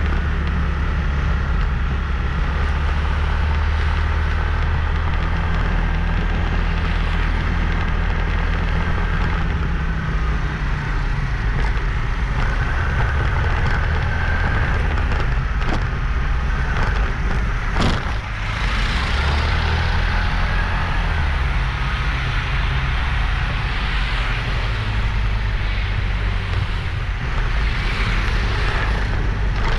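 Motorbike riding along a road: steady engine and road noise with a heavy low rumble, and a single sharp click about two thirds of the way through.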